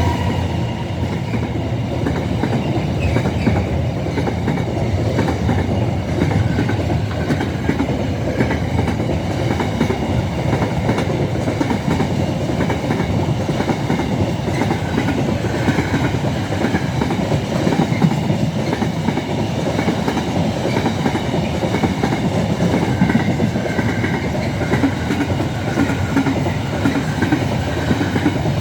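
A freight train's wagons rolling steadily past, their wheels clicking rhythmically over the rail joints, with a faint intermittent wheel squeal.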